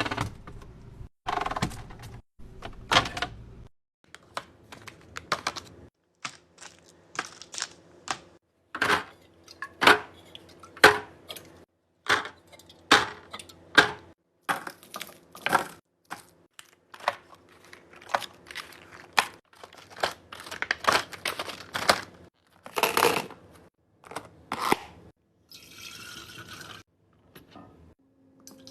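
Food containers and packages being handled and set down while a refrigerator is restocked: a run of separate knocks, taps and clicks of plastic and glass, with some crinkling of packaging near the end.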